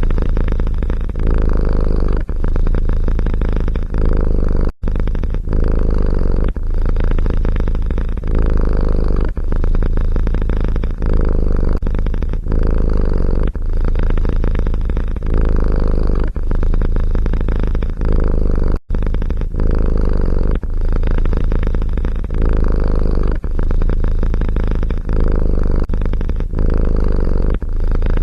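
Domestic cat purring loudly close up, the purr swelling and dipping about once a second with each breath. The sound cuts out for an instant twice.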